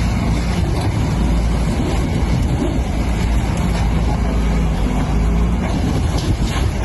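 Loud, steady rumbling noise of a moving vehicle, heaviest in the low end, with no sharp events.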